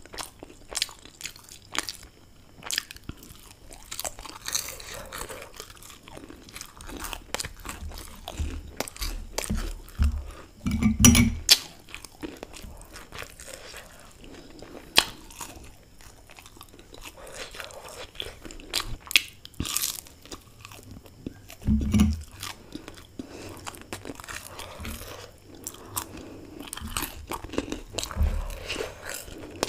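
Close-miked crunching and chewing of crisp fried samosa pastry, full of sharp irregular crackles. A couple of dull low thumps stand out, the loudest about a third of the way in.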